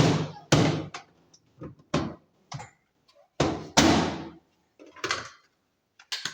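A string of irregular knocks and splashing bursts, each dying away within about half a second, from a washing-machine part being rinsed off by hand with water.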